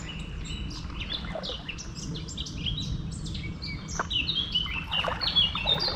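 Songbirds chirping and twittering in quick, rapid phrases, busiest near the end, over a low, steady background rush.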